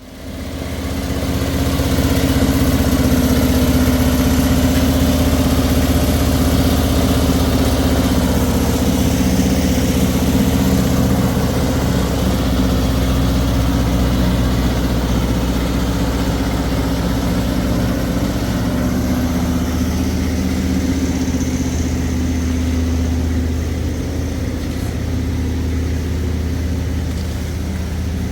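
A motor engine running steadily at an even speed, loud, with a low, constant hum.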